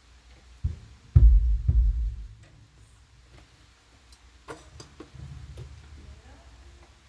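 Drum kit being tried out during a sound check: a sharp low thump, then two heavy low bass-drum hits that ring on briefly, followed by a few light clicks and taps.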